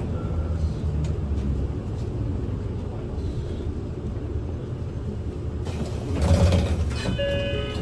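Inside a city bus: steady low engine and road rumble, then about five and a half seconds in a loud hiss of air from the bus's pneumatic system. Several steady electronic tones start near the end.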